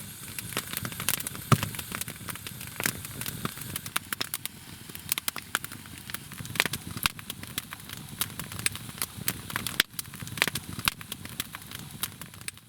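Wood fire of damp firewood crackling and popping in a fireplace-stove, with many sharp irregular pops over a steady hiss. It stops abruptly near the end.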